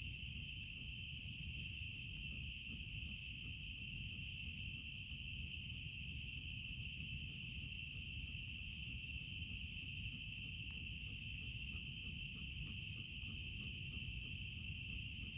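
Steady, unbroken chorus of crickets or similar night insects, with sparse faint crackles from a small campfire and a low rumble underneath.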